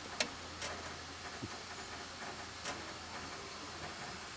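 A steady hiss with a few sharp clicks and ticks from a train of passenger coaches standing at a platform.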